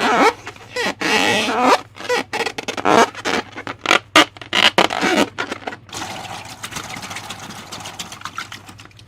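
Slime being worked by hand, with wet squishing and scraping and many sharp clicks and pops. From about six seconds in it settles into a quieter, steady scraping rustle.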